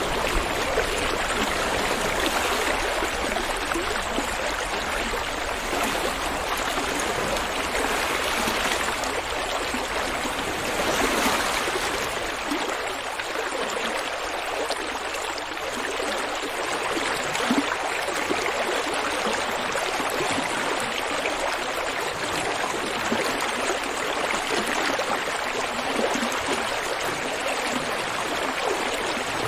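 River water flowing steadily over rocks, a continuous rushing and gurgling with small surges.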